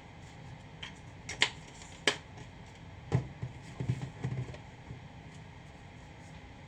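Three sharp clicks, then a cluster of soft low knocks over a steady faint background.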